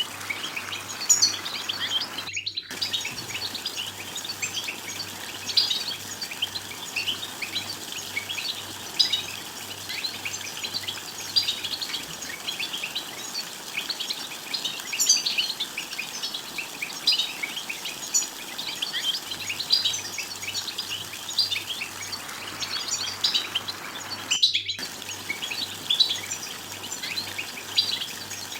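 European goldfinches twittering: a dense, continuous run of quick, high chirps and trills, cut off for an instant twice.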